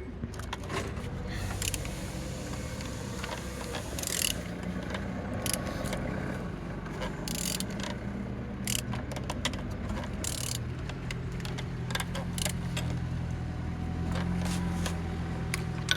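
Car engine being turned over by hand with a wrench on the crankshaft: scattered metallic clicks and short scrapes of the tool and turning internals over a steady low hum. It turns freely, which is taken as the engine running good.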